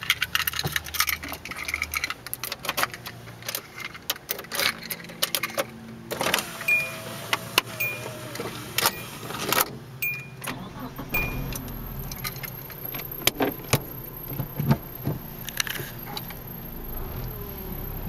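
Keys jangling and scattered clicks and knocks of handling inside a 1990 Hyundai Sonata. In the middle, a short warning chime beeps about once a second, five times. A low steady hum builds near the end.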